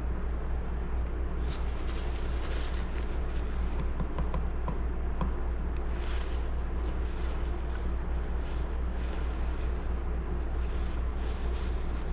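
Scattered light clicks and taps of small chainsaw starter parts being handled and taken apart, over a steady low hum.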